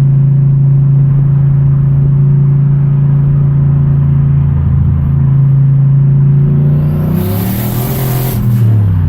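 Turbocharged car engine drone held at a steady pitch. About seven seconds in, a loud hiss breaks out and the engine note falls away, its pitch dropping as the car slows.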